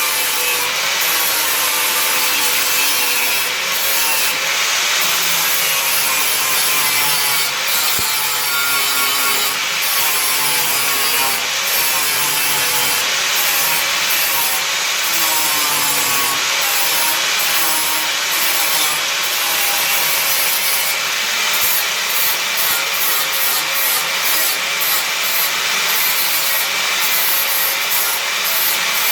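An angle grinder cleaning back sheet steel on a car body. It runs continuously, its motor pitch wavering up and down as it is pressed on and eased off.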